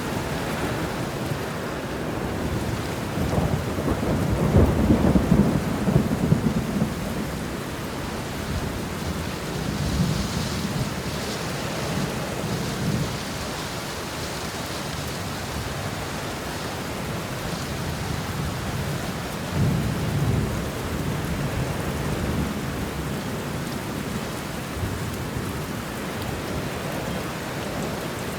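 Steady heavy rain with rolling thunder: a long low rumble swells about three seconds in and lasts a few seconds, and weaker rumbles come around ten and twenty seconds in.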